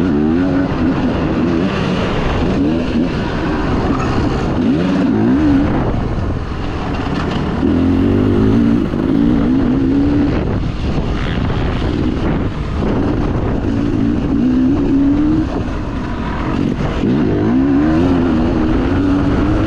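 Dirt bike engine running hard, its pitch climbing and dropping again and again as the throttle is worked, over a rough steady rumble.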